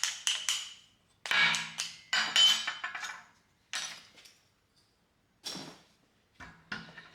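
Broken steel bits and tool pieces clinking and clanking against each other and a hard surface as they are picked up and set down. It is a string of separate metallic knocks with short ringing, the loudest bunched about one to two and a half seconds in.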